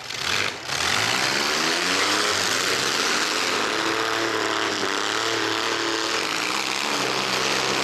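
Engines of demolition-derby mini trucks running and revving together: a dense, steady engine noise whose pitch rises and falls, starting just after a brief drop at the very beginning.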